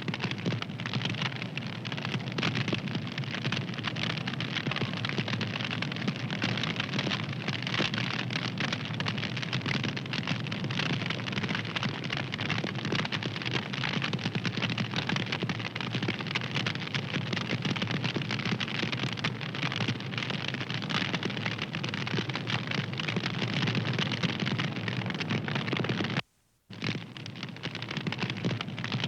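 Fire crackling, a dense run of small snaps and pops over a soft rush. About 26 seconds in, the sound cuts out for under half a second and then starts again.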